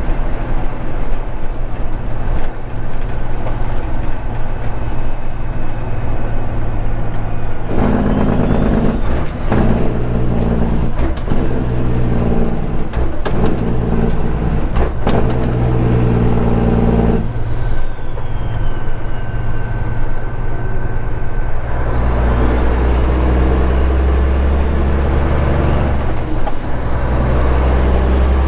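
Straight-piped Caterpillar 3406E diesel in a semi-truck running under way, its note shifting about 8 seconds in and again about 17 and 22 seconds in. A high whistle rises and falls over the last few seconds.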